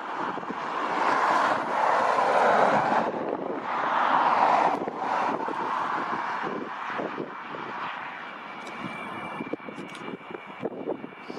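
Jet noise from an Antonov An-124's four turbofan engines: a loud rushing that builds over the first few seconds, peaks, then gradually fades. Wind buffets the microphone throughout.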